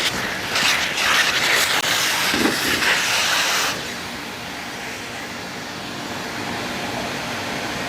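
An electric power tool's motor running: loud and rough for the first few seconds, then dropping to a steadier, quieter run a little under four seconds in.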